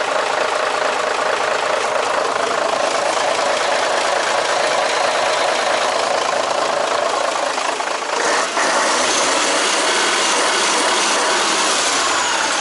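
Mercedes SK 3234 truck's V6 diesel engine running steadily, with a brief dip about eight and a half seconds in.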